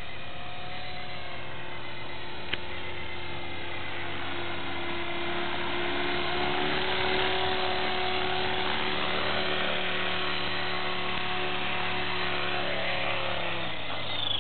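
Electric RC helicopter (E-sky Belt CP) hovering: a steady motor whine and rotor hum with several held tones, swelling a little louder and slightly higher in pitch about halfway through. A single short click a little over two seconds in.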